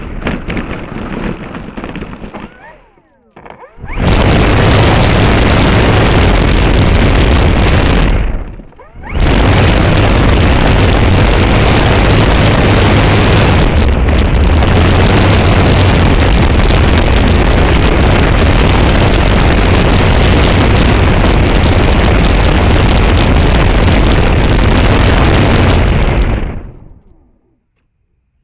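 Loud, distorted rushing noise on the microphone of an RC plane's on-board FPV camera. A faint thin whine is heard at first and drops away after about two seconds. There is a short lull, then the loud noise returns for about twenty seconds with one brief dip, and it fades out to silence near the end.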